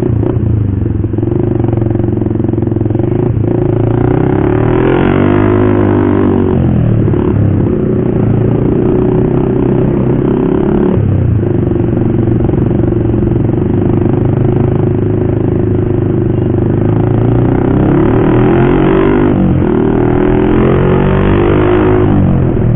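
Motorcycle with a loud aftermarket racing exhaust running at a steady cruise. The engine note rises and falls back twice, about five seconds in and again near the end.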